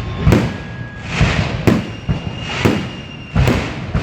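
Fireworks display with aerial shells bursting in loud bangs, about five of them roughly a second apart, over continuous crackling from the bursts.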